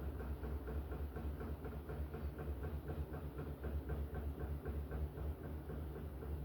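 LG top-loading washing machine in the spin at the end of its cycle: a steady low motor hum with a regular clacking about four times a second as the drum turns.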